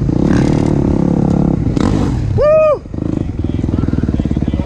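Kawasaki KX250's single-cylinder four-stroke engine running hard. About halfway through the revs shoot up and drop back in one quick arc, then the engine settles into a steady fast beat.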